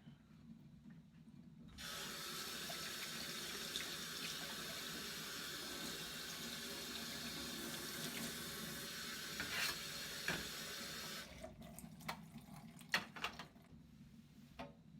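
A kitchen tap running into a sink for about nine seconds, starting about two seconds in and shutting off abruptly, followed by a few light clicks and knocks.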